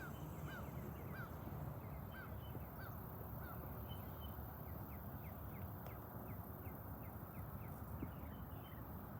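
Birds calling over a faint low background rumble. First comes a run of short arched notes about every half second, then from about halfway a faster series of short downward chirps, two or three a second.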